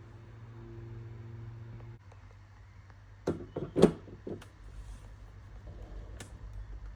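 A Sage espresso machine's pump hums steadily and cuts off about two seconds in, followed by a few sharp knocks and clatters, like hard parts or a cup being handled, and one more click near the end.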